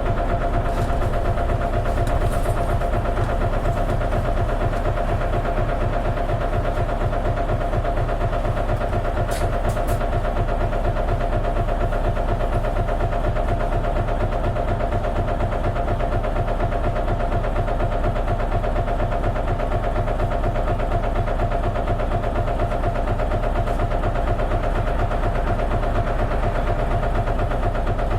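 Isuzu Erga city bus's diesel engine idling steadily, with a low even throb and a constant mid-pitched hum.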